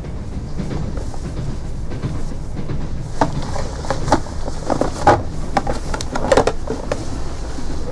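Steady low rumble of a moving train carriage. From about three seconds in, there are short rustles, clicks and knocks as a cloth-wrapped bundle is untied and unwrapped on the table.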